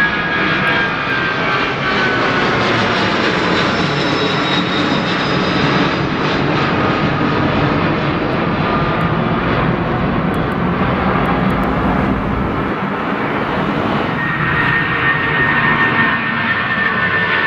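Jet airliner's engines running loud and steady as the aircraft passes. There is a whine that slides down in pitch over the first couple of seconds, and a new, higher whine comes in about fourteen seconds in.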